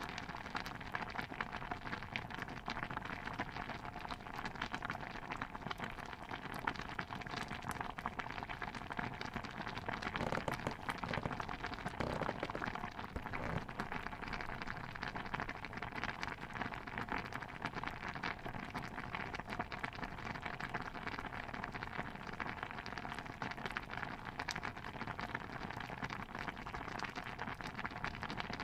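Pot of stew bubbling steadily, a dense patter of small pops and crackles that swells slightly about ten seconds in.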